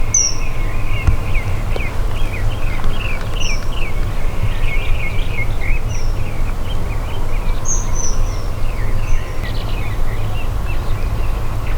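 Several wild birds chirping and singing in quick, overlapping notes, with a short high whistled call repeating every two seconds or so. A steady low rumble lies underneath.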